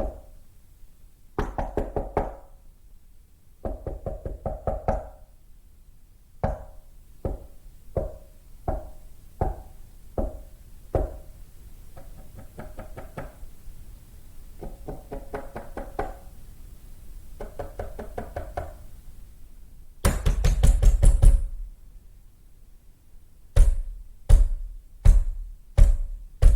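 Knocking on a door in changing patterns: quick flurries of raps alternate with single knocks spaced less than a second apart. About two-thirds of the way through comes a louder, faster burst of pounding, followed by heavy single knocks about 0.7 s apart.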